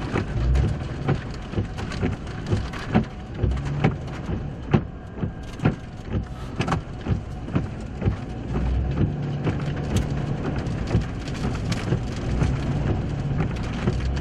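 Raindrops striking the vehicle, heard as irregular sharp taps a few times a second, over the steady low hum of its running engine.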